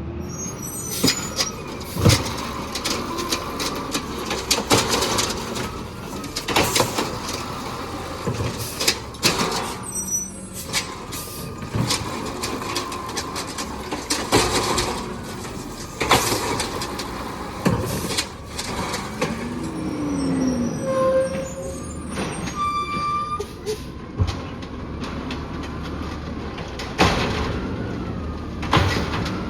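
Peterbilt 320 automated side-loading garbage truck at work: the diesel engine runs while the arm and clamp lift and dump carts, with repeated bangs and clatter spread throughout, and a brief sliding mechanical whine about two-thirds of the way in.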